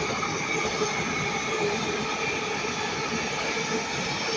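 Northern Class 331 electric multiple unit passing, a steady rumble of wheels on rail with faint held tones over it.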